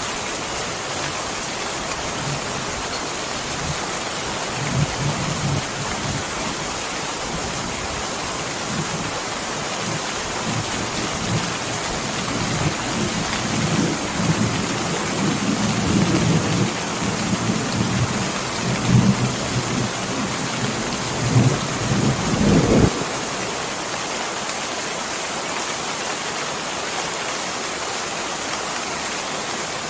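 Steady heavy rain, with a long low roll of thunder that begins about four seconds in, swells with several louder peaks, and cuts off suddenly about three-quarters of the way through.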